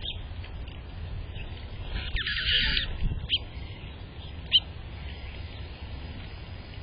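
Bird calls: one harsh call lasting under a second about two seconds in, and several short, sharp chirps around it, the loudest about four and a half seconds in, over a steady low rumble.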